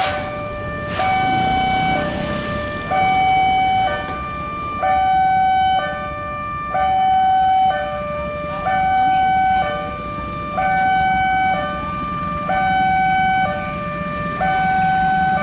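Railway level-crossing warning alarm: an electronic two-tone signal alternating evenly between a high and a low note about once a second, sounding as a train approaches. A low rumble of engines runs underneath.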